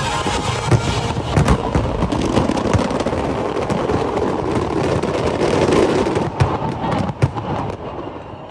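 Aerial fireworks going off: dense crackling with several sharp bangs, the crackle thickest a little past the middle and thinning out near the end.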